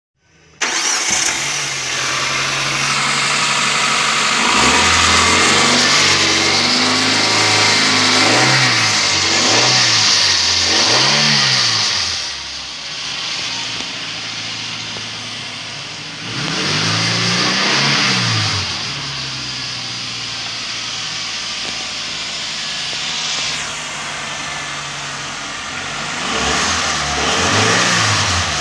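Suzuki APV 1.6-litre four-cylinder petrol engine running and being revved, with a few quick blips of the throttle, a longer rev a little later and more blips near the end. It runs cleanly and is judged to have tested good.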